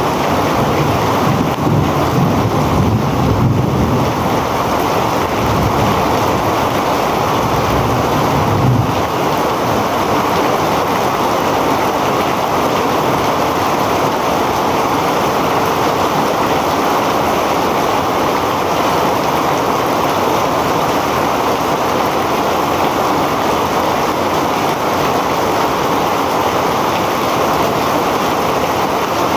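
Heavy rain pouring down steadily. Gusts of wind buffet the microphone with a low rumble during roughly the first nine seconds.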